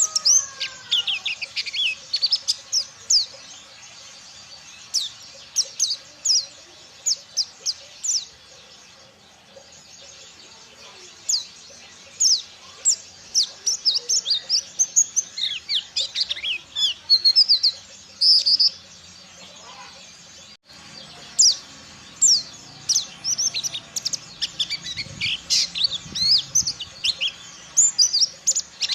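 White-eye (pleci) singing a rapid, continuous string of high, sharp chirps and short twittering trills, mostly quick downward notes, in dense phrases with brief pauses.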